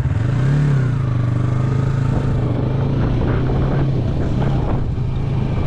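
Yamaha MT-03 motorcycle engine running as the bike rides on; its pitch rises briefly about half a second in, then holds steady.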